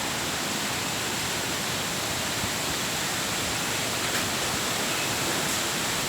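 Strong storm wind blowing in a steady, unbroken rush.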